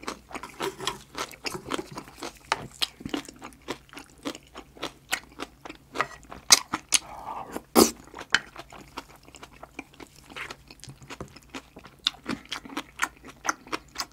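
Close-miked chewing of a mouthful of green onion kimchi: wet smacks and crunches in quick, irregular succession.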